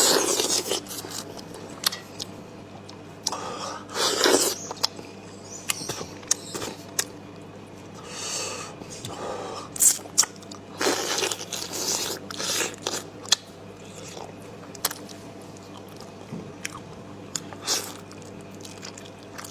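Close-up eating sounds: biting into and chewing chicken, with crunches and clicks coming at irregular intervals.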